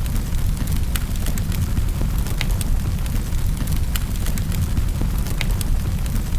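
Wood fire burning in a fireplace, crackling: sharp snaps and pops a few times a second over a steady low rumble.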